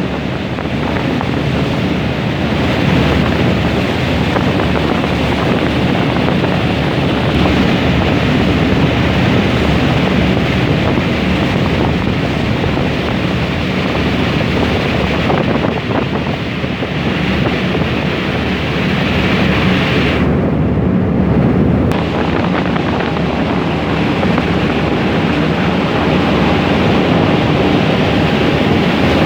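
Steady noise of a passenger ferry under way: engine drone and rushing water, with wind buffeting the phone's microphone. Just after twenty seconds the sound goes muffled for about two seconds.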